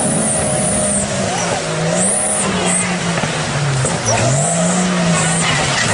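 Off-road 4x4's engine revving up and down again and again as it climbs over rocks in a stream, over a steady rush of noise.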